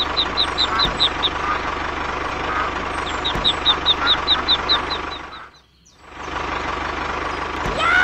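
Tractor engine running steadily, with runs of rapid high peeping chirps from ducklings over it. The sound dips to near silence for about half a second just past the middle, then returns.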